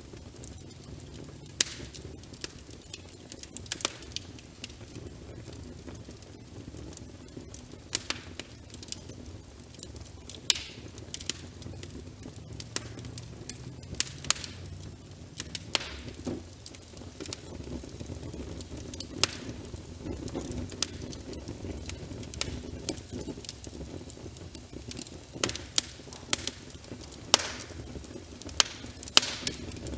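Wood fire in a fireplace crackling, with irregular sharp pops, layered over a steady hiss of rain.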